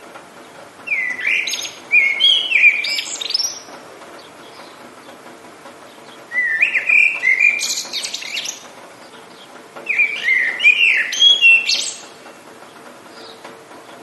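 A songbird singing three phrases of quick warbling, chirping notes, each two to three seconds long and a few seconds apart, over a steady background hiss.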